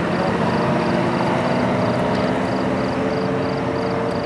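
Car engine running at a steady speed, holding an even pitch with no revving.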